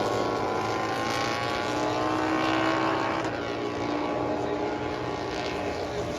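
Several racing motorcycle engines running at high revs, their pitches overlapping and gliding slowly downward.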